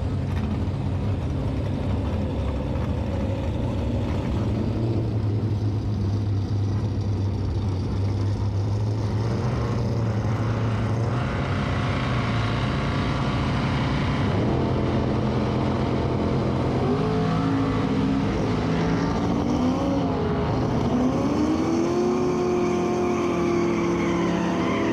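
Engine of a twin-turbocharged GMC pickup running hard during a drag-strip pass. Its pitch is steady for about the first half, then rises and falls several times. The torque converter is flashing the revs up after the 1-2 shift.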